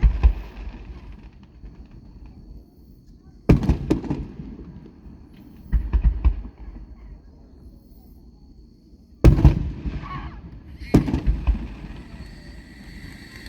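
Aerial fireworks shells bursting: about five loud booms at uneven intervals, each trailing off with a rumbling echo and some crackle.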